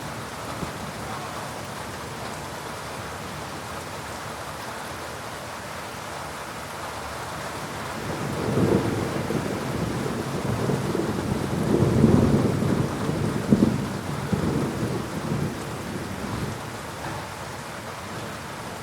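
Steady rain falling in a thunderstorm, with a long low rumble of thunder that builds about eight seconds in, peaks twice and dies away a few seconds later.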